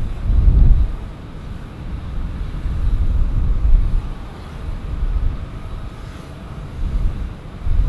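Jet airliner engines, a low rumble with a faint higher whine, on an arriving flight, mixed with wind buffeting the microphone in uneven gusts.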